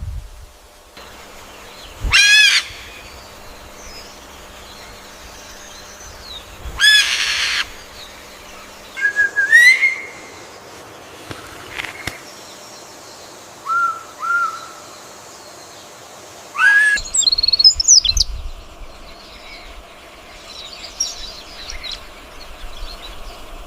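Birds calling at intervals: loud calls about two seconds in and about seven seconds in, short rising chirps around ten and fourteen seconds, and another loud run of calls around seventeen seconds, with fainter chirps between.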